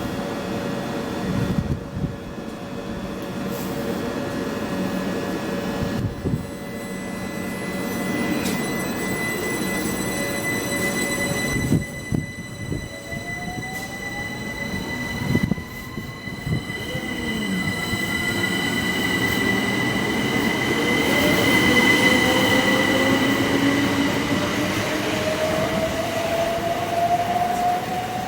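Electric train at a station platform, with a steady high squeal and a whine that rises slowly in pitch from about halfway through as the train gathers speed, with a few knocks along the way.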